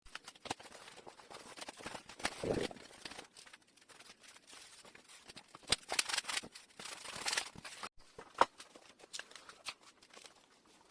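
Scattered sharp clicks and light knocks of hand handling, with a short louder rustle about two and a half seconds in and a busier run of clicks around six to seven seconds in.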